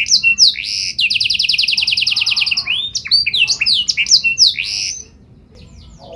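Domestic canary singing: a run of fast sweeping whistled notes, a rapid even trill held for over a second and a half, then more quick sweeping phrases, breaking off about five seconds in.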